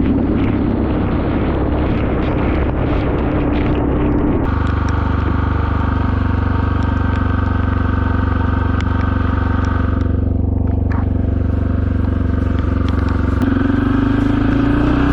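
Suzuki DR650SE single-cylinder engine running through a SuperTrapp exhaust. Wind noise over it for the first few seconds gives way to a steady, even engine note about four seconds in. The note changes again near the end.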